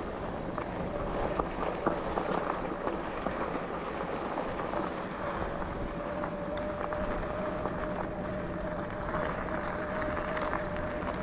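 Bicycle ride noise on a woodland trail: tyres rolling over a rough surface with many small rattles and knocks, and a thin steady whine that comes up about halfway through.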